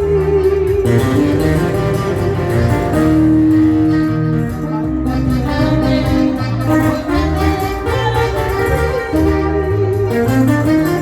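Instrumental passage of Andean folk music: a guitar-led melody over a steady bass line, with no singing.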